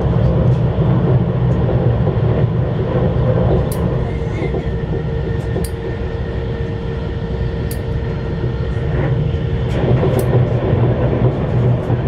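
Running noise of a CRH1A high-speed electric multiple unit heard from inside the carriage: a steady low rumble from the wheels and track, a faint whine from about 3 s in to about 9 s in, and scattered light clicks.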